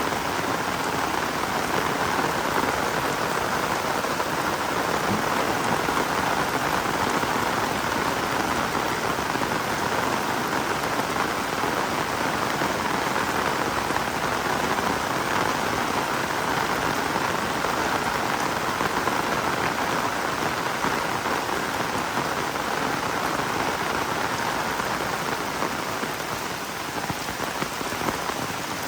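Heavy rain falling steadily, a dense even hiss of drops on the ground and surfaces.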